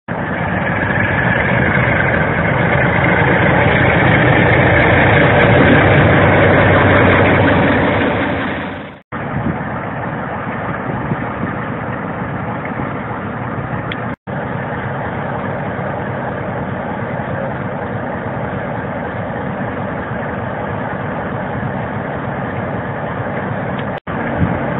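Class 47 diesel-electric locomotives' Sulzer V12 engines running, loud for the first nine seconds, then a steadier, quieter running sound after sudden breaks.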